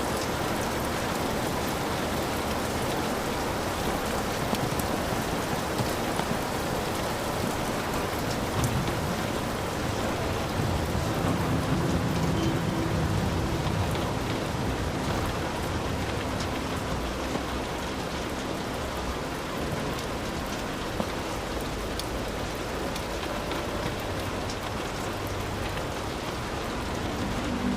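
Heavy rain falling steadily on a hut, with scattered sharp drops. A low rumble of thunder swells about eleven seconds in and fades a few seconds later.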